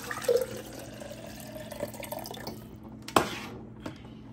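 Water being poured into a plastic coffee-maker tumbler, with a faint pitch that rises slightly as it fills. The pour stops about three seconds in, followed by a single sharp knock.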